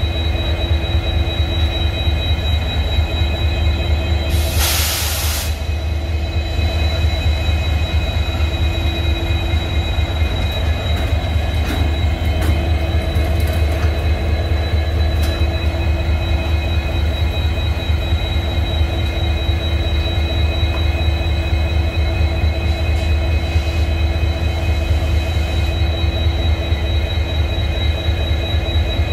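Twin EMD WDP4D diesel-electric locomotives idling with a steady, deep humming drone and a high, constant whine above it. A short hiss cuts in about five seconds in.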